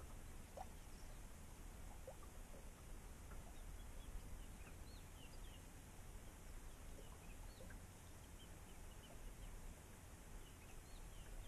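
Faint birds calling: many short chirps scattered throughout, over a low steady rumble.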